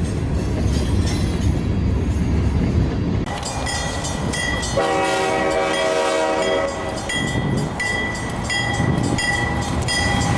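A train rumbling and clattering past. After an abrupt change about three seconds in, a locomotive horn sounds once for about two seconds, over a high ringing tone that repeats about twice a second.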